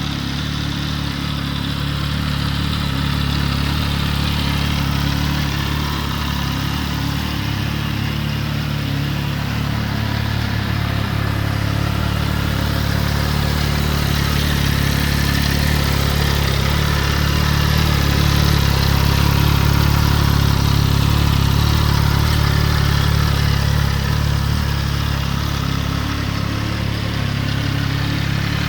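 MV Agusta Turismo Veloce Lusso's three-cylinder engine idling steadily.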